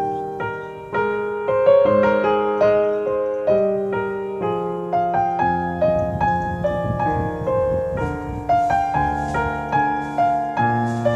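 Piano music: a solo piano plays a gentle melody over low chords, the notes struck and left to fade.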